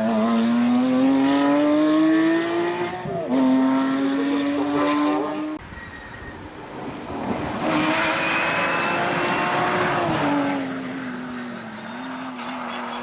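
A Porsche competition car's engine at full acceleration, revs climbing, with a sharp drop for an upshift about three seconds in before climbing again. The note cuts off suddenly around halfway, returns with rising revs, then falls away as the car slows near the end.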